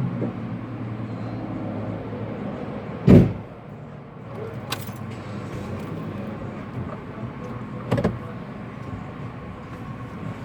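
Two heavy thumps of a car's panels being shut, about five seconds apart, with a sharp click between them, over a steady low hum.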